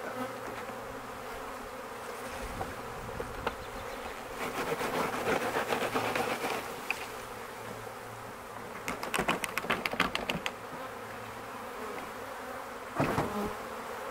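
Honey bee swarm buzzing steadily in a low hum. Two spells of rapid clicking and rustling from handling cut through it in the middle, and a single knock comes near the end.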